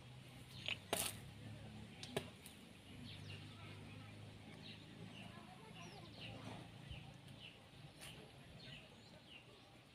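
Small birds chirping faintly with many short, high, falling calls, over a faint low hum. A few sharp clicks stand out, the loudest about a second in.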